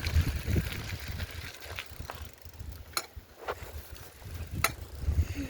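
Bicycle being ridden: a low rumble of wind and rolling on the microphone, with a few sharp clicks and rattles from the bike about three, three and a half and four and a half seconds in.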